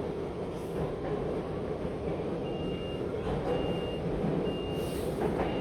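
Metro train door-closing warning: a high beep about half a second long, repeating about once a second from a little over two seconds in, over the steady low rumble of the train.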